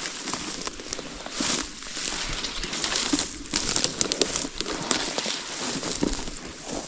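Footsteps crunching and rustling through dry leaves and brush, an uneven run of crackles and snaps.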